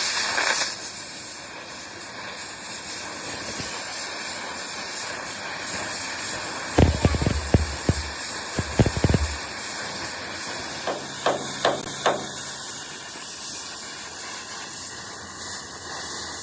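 Steady hissing workshop noise, with a quick run of sharp knocks about seven seconds in and a few more around eleven to twelve seconds.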